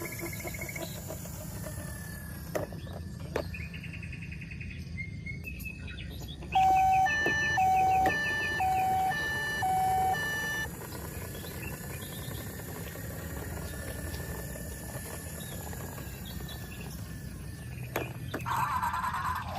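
Electronic toy sound chip playing a run of alternating high and low beeps over a buzzy tone for about four seconds, starting about six and a half seconds in, amid a steady low hum and a few shorter electronic tones.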